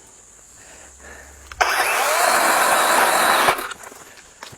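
Engine being started: a sudden loud burst of cranking lasting about two seconds that stops abruptly, after a low hum.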